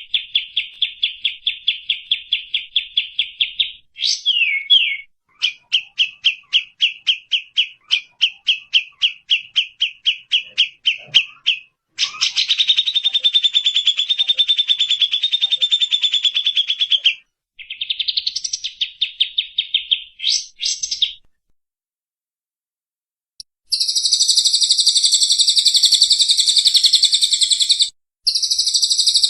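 Bird calls from a song-training recording: fast series of sharp repeated notes, about ten a second, then a dense unbroken trill. After a short pause, a higher, buzzier trill comes in near the end.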